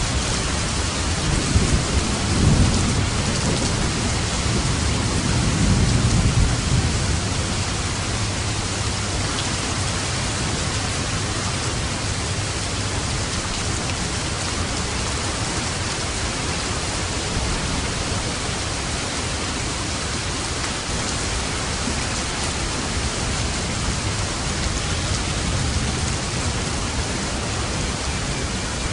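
Steady rain with light thunder. Low rumbles of thunder swell twice in the first seven seconds under the rain.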